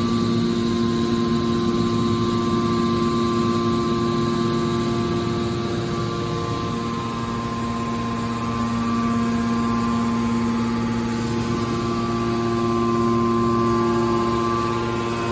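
Hydraulic scrap metal baler running, its pump and motor giving a steady hum with a few constant tones.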